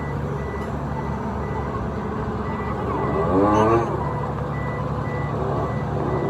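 Reversing alarm beeping about twice a second over a steady running engine. A brief rising voice-like call comes about halfway through.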